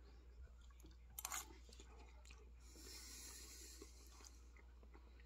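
Faint chewing of a mouthful of chicken lo mein noodles and vegetables, with a short click about a second in.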